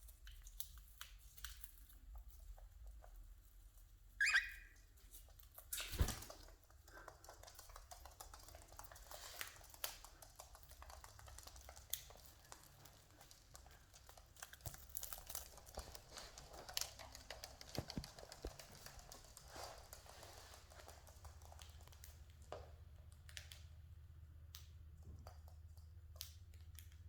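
Cockatiels cracking and eating seeds: a running scatter of small clicks, crackles and crunches. A brief high chirp comes about four seconds in, and a louder knock about six seconds in.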